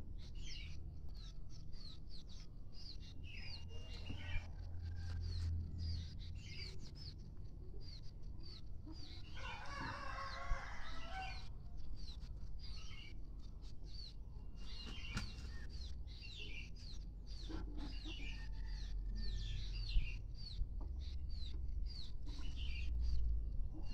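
A flock of village chickens: a steady run of short, high, falling peeps and clucks, with a louder scratchy flurry about ten seconds in, under a low steady rumble.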